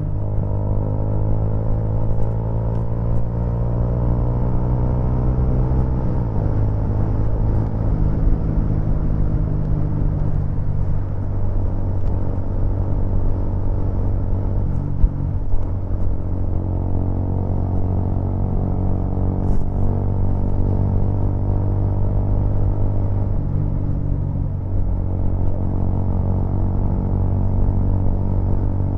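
Vehicle engine running under way, recorded by an onboard action camera. It rises in pitch as it accelerates for the first few seconds, drops sharply at a gear change about six seconds in, then cruises fairly steadily.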